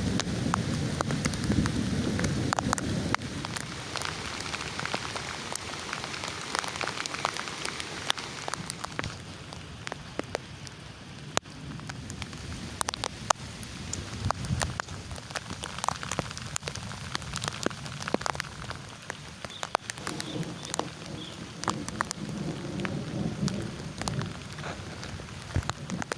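Heavy rain falling, with many individual drops striking a surface close by. A low thunder rumble fades away over the first few seconds, and another low rumble returns near the end.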